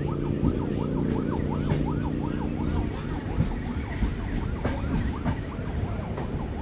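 A siren wailing in a fast yelp, rising and falling about four to five times a second, over the low rumble of the moving train. A steady low droning tone runs underneath and stops about three seconds in.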